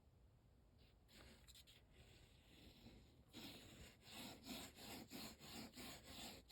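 Faint, even back-and-forth rubbing on paper, about three strokes a second, beginning about a third of the way in after a few softer scuffs.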